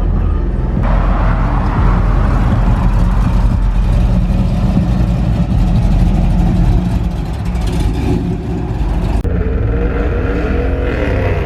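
Pickup truck's LS V8 engine running hard and accelerating, loud, with the sound changing abruptly about a second in and again near the end.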